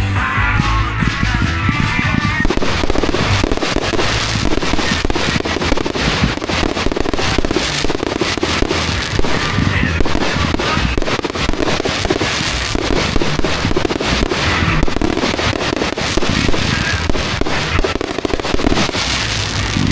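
Fireworks going off nonstop: a dense, rapid run of cracks and bangs with low booms, over loud music.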